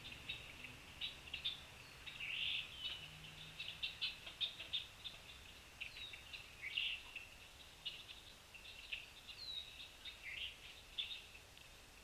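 Wild birds calling around the feeders: a busy scatter of short, high chips and twitters, with a few quick downslurred whistles now and then.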